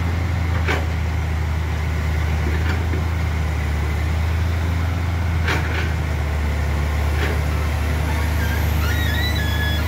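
Heavy diesel engine running steadily with a deep low drone, and a few sharp clicks or knocks. Short stepped tones sound near the end.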